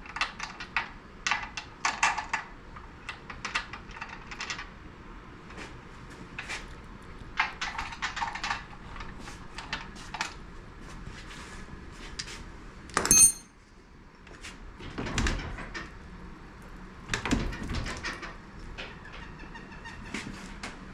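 Hand tools and metal parts clinking and knocking while the lower unit of an outboard motor is being unbolted: scattered short clicks and taps, with one sharp ringing metal clink about 13 seconds in.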